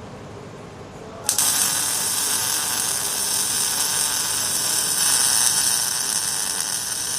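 Welding arc on exhaust pipe striking about a second in, then a steady crackling hiss as the bead is laid.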